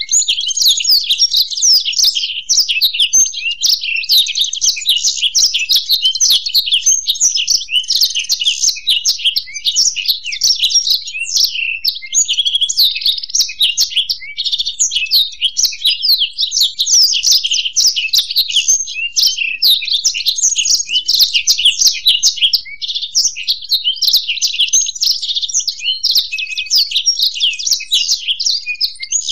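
Blackthroat (black-throated canary) and European goldfinch singing together: a dense, unbroken stream of rapid high chirps and trills.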